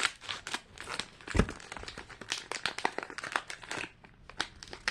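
Crinkling and tearing of a small plastic wrapper being opened by hand, a run of short crackles and rustles with a soft thump about a second and a half in.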